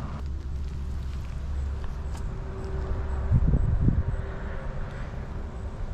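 Steady low rumble of distant road traffic, with a brief louder low rumble about three and a half seconds in.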